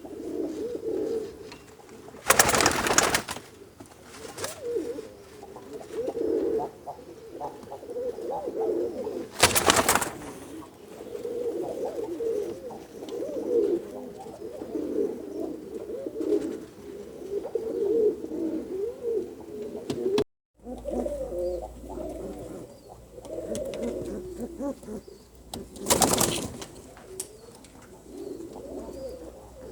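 Domestic Kashki fancy pigeons cooing continuously, their low coos overlapping. Three short, loud noise bursts break in, near the start, about a third of the way through and near the end.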